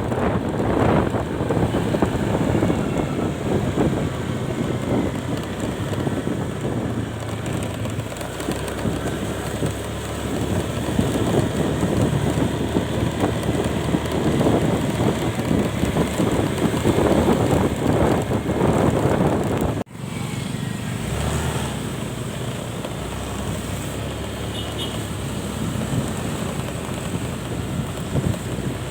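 Road vehicle noise and wind rushing over the microphone while riding, a dense steady rumble. The sound cuts out for an instant about two-thirds of the way through.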